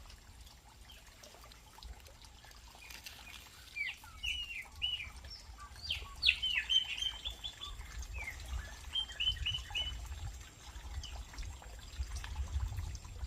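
Small birds chirping, with a run of short rising chirps and quick trills from about three seconds in, thinning out toward the end, over a low rumble.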